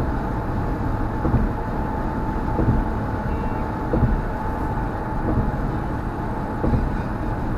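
Car driving at road speed: steady tyre and road noise, with light thumps coming regularly about every second and a half.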